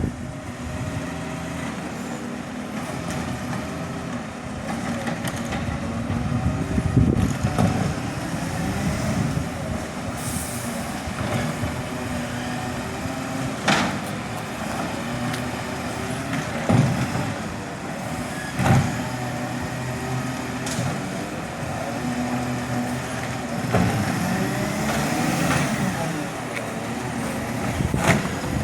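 Garbage truck engine running, with several sharp knocks spread through and a brief rise in engine pitch near the end.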